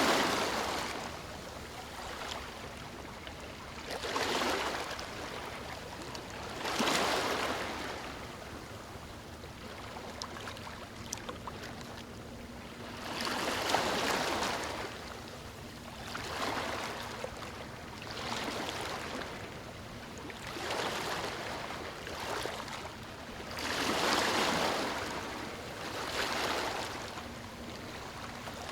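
Ocean surf washing onto a beach: waves rush in and fade again every few seconds, with a steady hiss of water between them.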